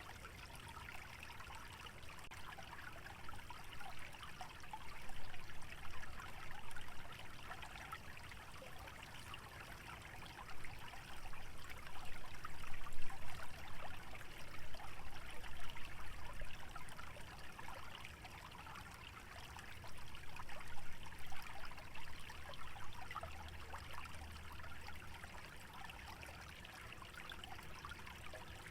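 Small stream trickling steadily through a wetland, swelling louder several times, with wind rustling dry dormant vegetation.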